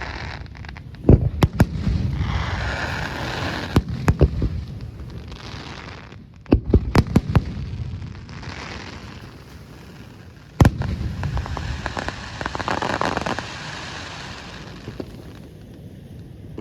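Fireworks display: sharp shell bursts, some in quick runs of several bangs and one loud single bang about two-thirds of the way through, with crackling stretches between them.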